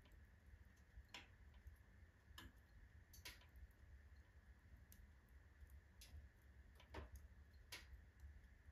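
Wood fire burning in a fireplace stove, the logs giving off sharp, irregular crackles and pops, about seven in a few seconds, over a faint low rumble.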